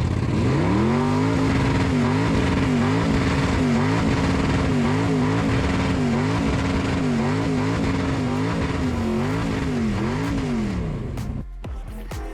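Car engine revving hard in a burnout, held high at near-constant revs with repeated brief dips and recoveries, over a steady hiss of spinning tyres; it cuts off about eleven seconds in.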